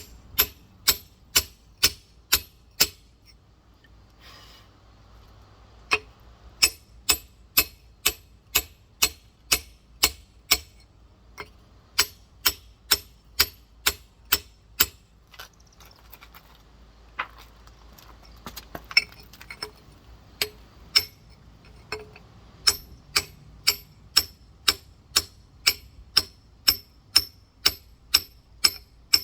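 Rock hammer tapping on a giant geode to crack it: sharp clinking strikes about two a second, with short pauses about 3 s in and again near the middle and two-thirds through.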